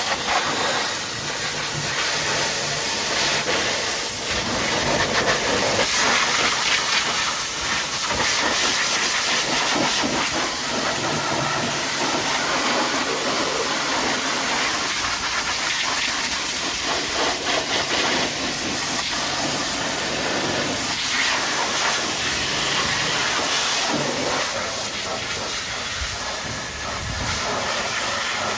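Pressure washer spraying a high-pressure water jet onto a truck: a loud, steady hiss of spray that shifts as the jet moves over the surface, with a faint low hum underneath.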